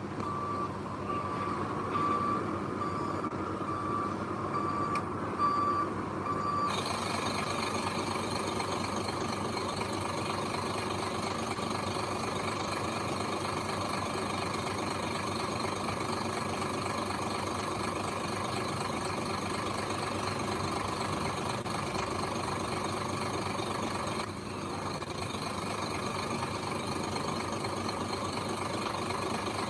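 A construction vehicle's reverse alarm beeps steadily, about two high beeps a second, over a running diesel engine. About seven seconds in the beeping stops and the heavy diesel engine grows louder and fuller, then keeps running steadily.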